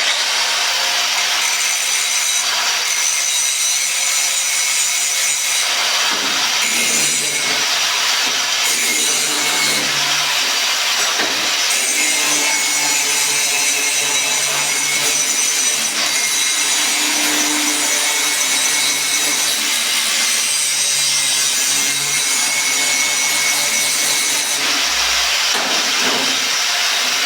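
Angle grinder running steadily with its disc against metal, dressing down a fresh weld on a padlock.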